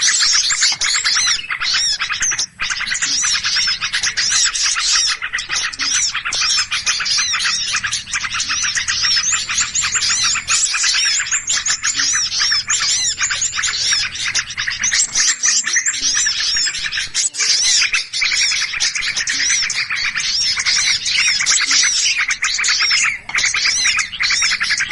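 Bird-trapper's lure recording of many small birds chirping noisily at once: a dense, unbroken chorus of overlapping high chirps and trills, with a brief drop about two and a half seconds in.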